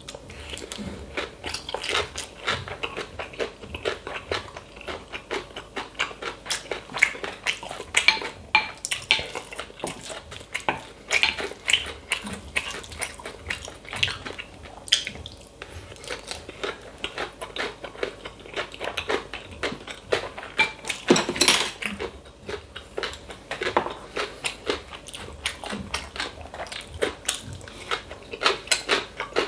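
Close-up eating sounds of bibimbap: a spoon clinking and scraping against the bowl, with chewing and crunching in quick, irregular clicks.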